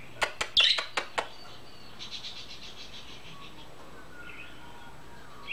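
Budgerigar chirping: a handful of short, sharp chirps in the first second, then a brief rapid chatter and a few faint thin whistles.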